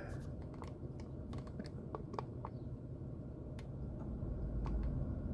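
Low steady rumble of a stopped car with its engine idling, heard from inside the cabin, with scattered light clicks and taps over it.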